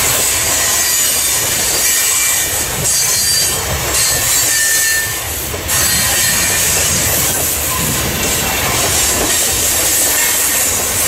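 Covered hopper cars of a freight grain train rolling past: steel wheels on rail make a steady rumble with a loud high hiss, and the wheels squeal faintly now and then.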